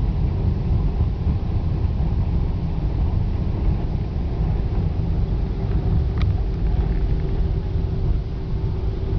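Steady low rumble of engine and airflow noise inside the passenger cabin of a Boeing 747 Combi airliner, with a brief click about six seconds in and a faint steady hum joining about halfway through.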